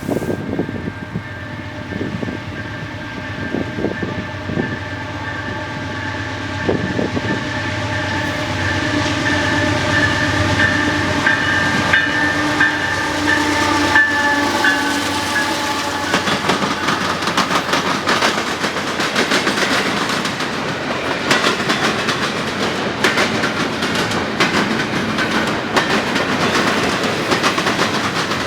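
A train horn sounds a sustained multi-note chord for roughly the first half, growing louder as the train approaches. After that, the horn stops and the train passes with a steady rumble and the rapid clickety-clack of wheels over the rails.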